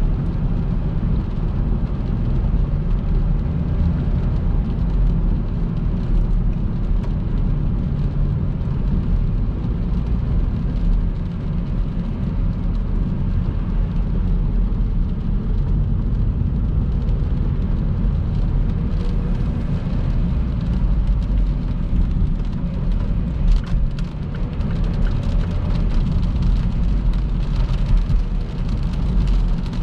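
Steady low rumble of a car driving at speed on a rain-wet motorway: tyre and wind noise, with a few faint ticks about two-thirds of the way through.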